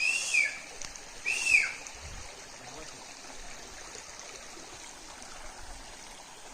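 Shallow stream running over rocks, a steady rush of water. Near the start two short high calls, each rising then falling, about a second apart, stand out above it.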